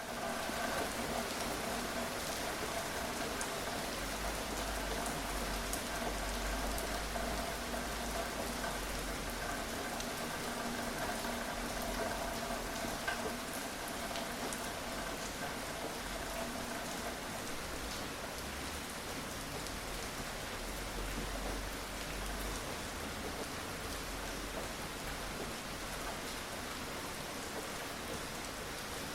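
Steady rain falling, an even hiss with scattered individual drop ticks. A faint hum lies under it in the first half and fades out about halfway.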